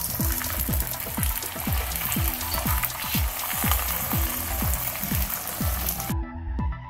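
Hiss and light crackle of a stuffed mooli paratha cooking on a hot iron tawa, which cuts off sharply about six seconds in. Background music with a steady electronic beat plays throughout.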